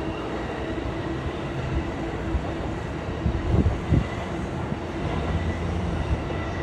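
Yellow-striped JR Chūō–Sōbu Line local electric train running past on the tracks, a steady rumble with a couple of short knocks a little past halfway.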